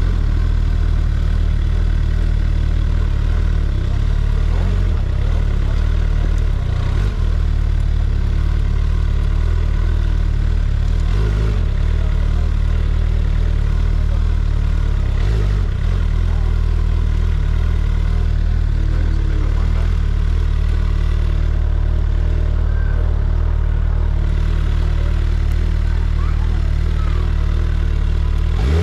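Large motorcycle engine idling steadily, with a deep, even tone.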